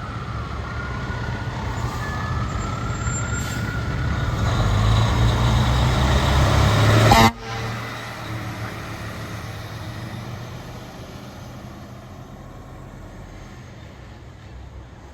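Fire apparatus going by on a call: a siren wails while the truck's diesel engine rumbles, growing louder until it cuts off suddenly about seven seconds in, leaving a quieter engine rumble that slowly fades.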